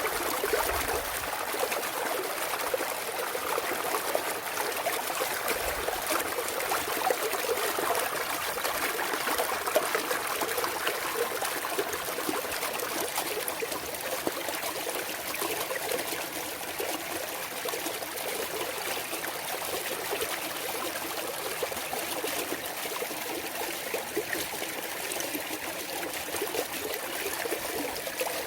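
Clear mountain stream water trickling and splashing over rocks, a steady babbling flow.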